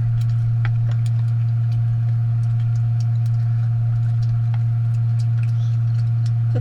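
Steady low electrical-type hum, unchanging, with faint scattered clicks and taps over it.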